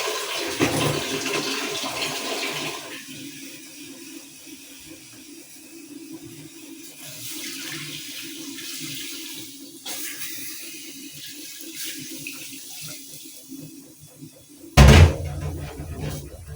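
Water rushing or bubbling, strongest for the first three seconds and then settling to a quieter steady sound, with a sudden loud bump about a second and a half before the end.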